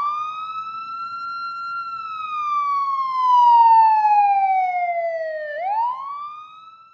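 A siren wailing in a single tone: it rises, slowly winds down over several seconds, then rises quickly again about five and a half seconds in before fading away.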